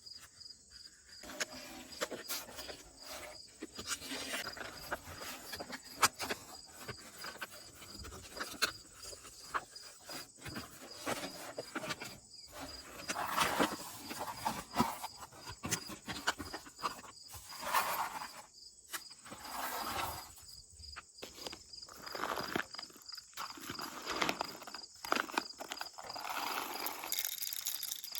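Insects chirping steadily in a fast, even pulse behind a scatter of irregular clicks and short rustles from things being handled.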